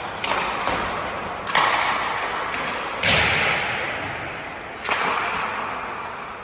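Hockey pucks being shot on an ice rink: five sharp cracks of stick on puck and puck striking the boards, each ringing out in a long echo through the rink. The loudest comes about three seconds in.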